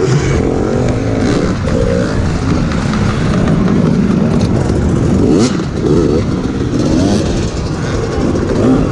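Dirt bike engine revving up and down over and over, the pitch rising and falling as the rider works the throttle over rough ground.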